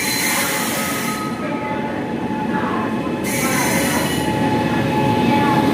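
Train running on the rails, with a rumbling noise and thin high squealing tones from the wheels. A sharp hiss comes in abruptly twice, for about a second each time.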